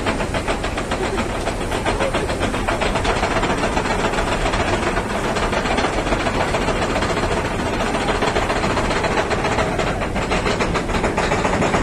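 Motorboat running at speed: a steady rushing hiss over a fast, even engine pulse.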